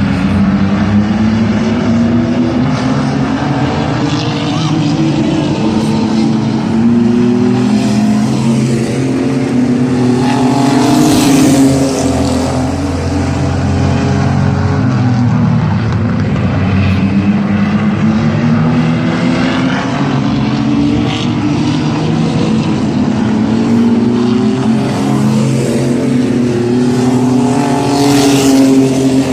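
Mini trucks racing on a short oval, several engines running hard together and rising and falling in pitch as they accelerate and lift. The sound swells twice as the pack sweeps past, about 11 seconds in and again near the end.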